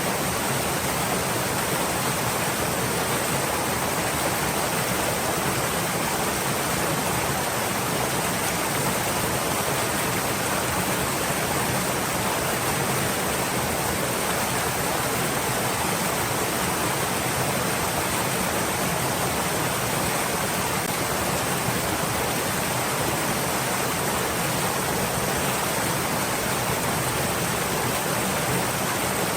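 A stream flowing: a steady, even rush of water with no single splashes standing out.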